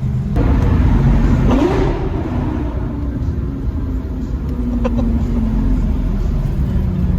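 Lamborghini Gallardo Superleggera's 5.0-litre V10 with an aftermarket exhaust, loud. It jumps in level about a third of a second in as the throttle opens, sweeps up in pitch a second later, then runs on at a steadier pitch.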